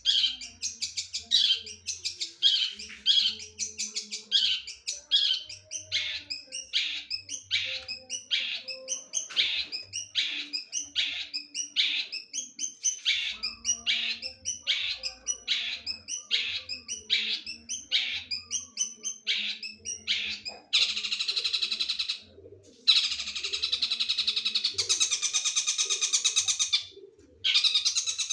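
A long-tailed shrike (cendet) singing mimicked stork-billed kingfisher (tengkek buto) material: a long run of sharp high notes repeated about twice a second. About two-thirds of the way through it switches to a rapid continuous chatter, broken twice by short pauses.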